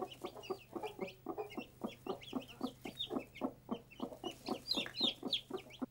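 Newly hatched chicks peeping in high, short, falling notes over a hen's rapid low clucking, about five clucks a second.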